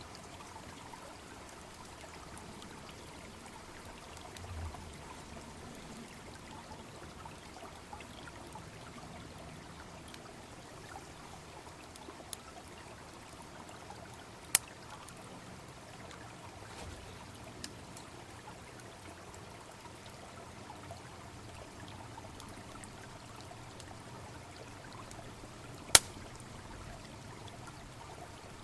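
Babbling brook running steadily, with a few small ticks from a wood bonfire and two sharp, loud pops of burning firewood, one about halfway through and one near the end.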